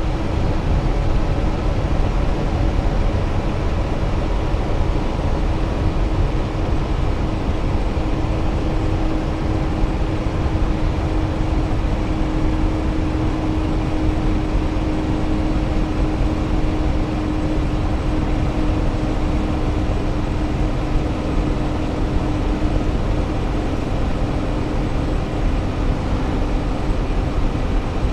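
Road and engine noise inside a moving car's cabin: a steady low rumble with a faint steady hum that fades out near the end.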